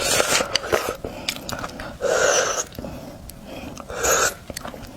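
Close-up eating of oysters: wet chewing and mouth clicks, with three louder sucking slurps about two seconds apart.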